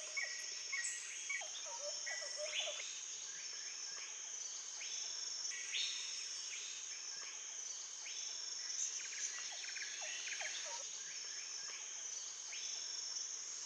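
Rainforest ambience: a steady, high insect drone with many short bird chirps and whistles scattered through it, fairly quiet.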